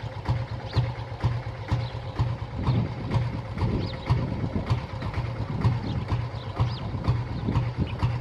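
Diesel-hauled train running, with a steady engine rumble and a regular clicking clatter about three times a second.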